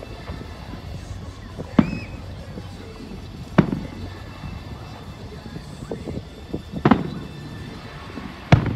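Aerial firework shells bursting: four sharp booms spread a second and a half to three seconds apart, each followed by a short rumble.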